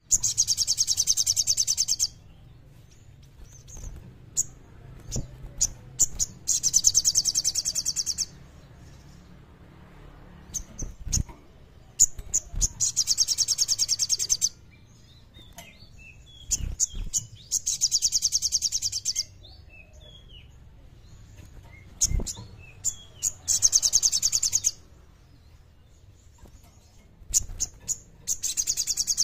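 Sogon bird singing vigorously: bright, rapid trilled phrases about two seconds long, repeated every five to six seconds, with short chirps and clicks between them.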